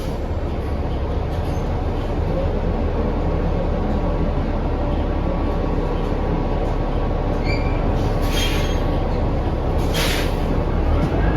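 Inside a 2019 New Flyer XD40 transit bus on the move: steady drivetrain and road noise with a thin steady whine. Two short hisses come about eight and ten seconds in, and a rising whine starts near the end.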